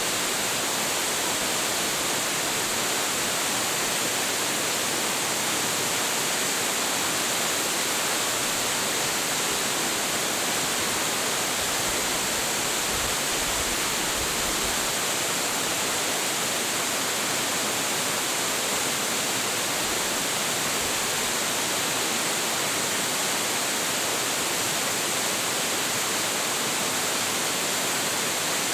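Large waterfall, about 25.7 m high with a heavy flow, plunging steadily: an even, unbroken rush of falling water.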